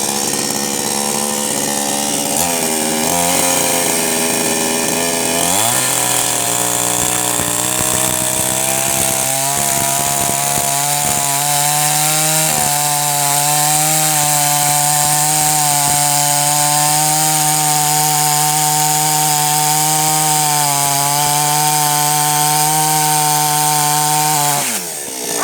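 Chainsaw engine cutting firewood. It speeds up about five seconds in and holds a high, steady pitch, with a few brief dips. Near the end the throttle is released and the pitch falls away.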